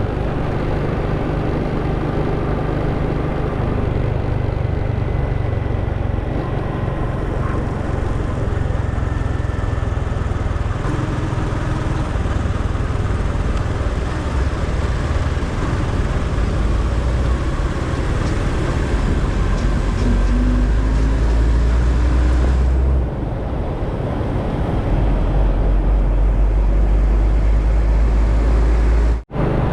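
Motorcycle riding on the road: steady engine, road and wind noise, with heavier low rumble in two stretches in the second half. The sound cuts out for an instant near the end.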